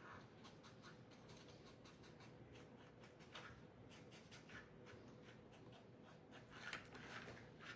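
Faint scratching and light tapping of a paint marker being stroked and dabbed while colouring small craft pieces, in short scattered strokes with a busier cluster about seven seconds in.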